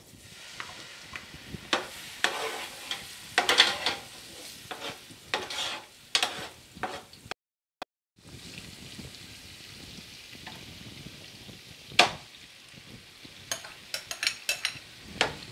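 Ginger-garlic paste sizzling in hot oil in a deep pot, stirred with a metal ladle that scrapes the pan, then a steady frying sizzle. A sharp clink comes about twelve seconds in, and a run of clinks near the end as minced meat is tipped in from a glass bowl.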